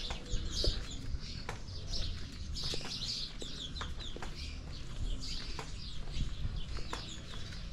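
Small birds chirping and twittering in repeated short bursts, with scattered faint clicks and a low rumble underneath.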